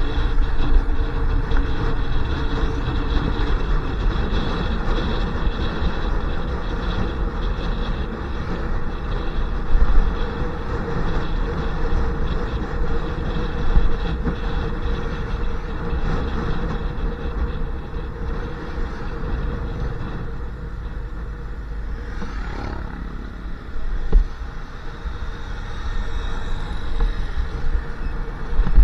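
Motorcycle ride heard from the rider's camera: an engine running steadily under a constant rumble of wind and road noise, with a few short sharp thumps about ten, fourteen and twenty-four seconds in.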